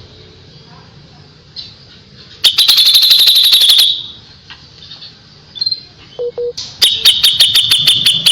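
Kapas tembak songbird singing two fast volleys of sharp, shrill repeated notes, the 'tembakan' (shot) phrases of its song. The first comes about two and a half seconds in and lasts about a second and a half, the second runs through the last second and a half, with a few short chips between.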